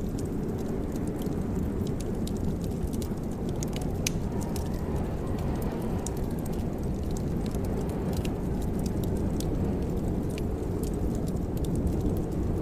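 Wood fire crackling in a fireplace: scattered small pops and snaps over a steady low rumble.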